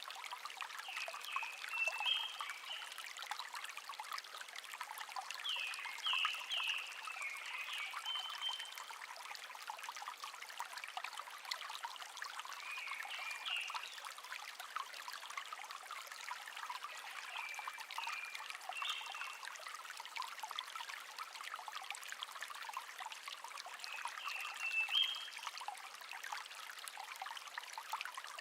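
Small brook babbling and trickling steadily, with a songbird singing short chirping phrases about every five or six seconds.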